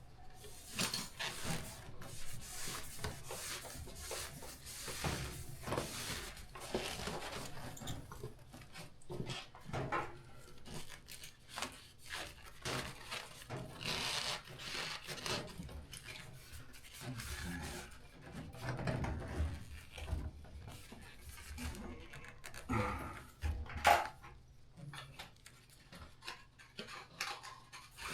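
Irregular rubbing, tapping and knocking of hand work, with one sharper knock a little before the end.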